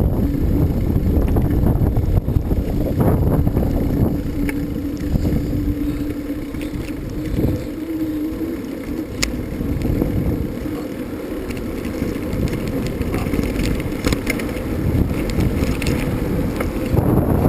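Wind buffeting the microphone while riding a bicycle over rough ground, with scattered knocks and clicks from the bike, the clearest about nine seconds in. A faint steady hum runs under it for roughly the first half.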